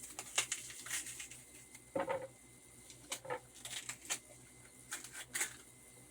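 Kitchen knife working green plantain against a cutting board: a string of irregular sharp clicks and short scrapes as the plantain is peeled and cut.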